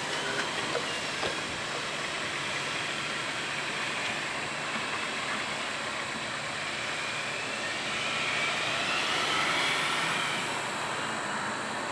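Freight train cars rolling away along the track: a steady, distant rail noise with a few faint clicks. A car drives past close by, its noise swelling and fading near the end.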